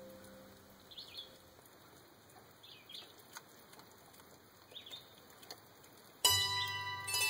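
Background music of plucked strings, zither-like: a note dies away, leaving a quiet stretch with faint short high chirps every couple of seconds, then a new plucked chord comes in suddenly about six seconds in.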